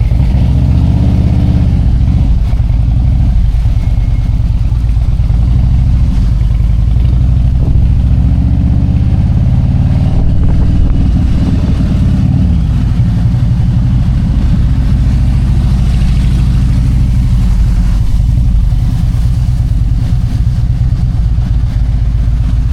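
Harley-Davidson Road King V-twin engine running under way, its pitch rising and falling as the bike speeds up and slows, with a drop about twelve seconds in.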